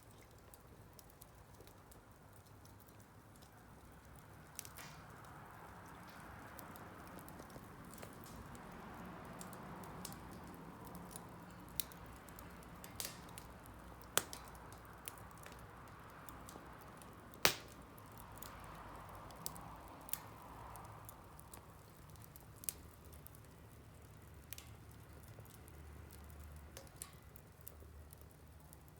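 Wood campfire crackling: irregular sharp pops and snaps over a soft hiss of burning wood, the loudest pop a little past halfway.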